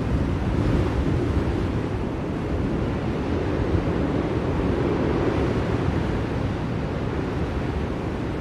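Blizzard wind blowing in a steady, deep rush, with no gusts or single sounds standing out.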